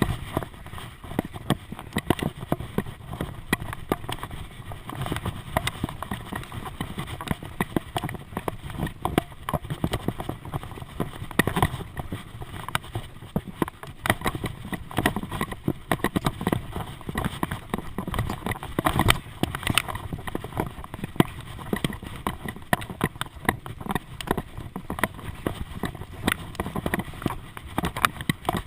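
Continuous irregular rattling and clattering of a GoPro camera and its mount being jolted during a bike ride.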